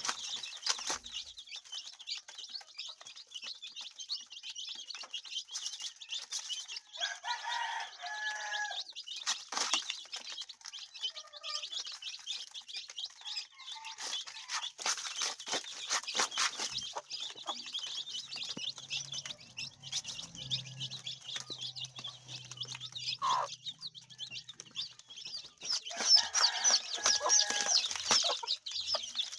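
Chickens clucking, with two louder bouts of calls, one about a quarter of the way in and one near the end, over constant high chirping and occasional sharp clicks.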